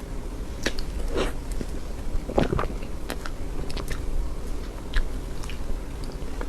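Close-miked eating of soft cream cake: moist bites and chewing with scattered small clicks and smacks of the mouth.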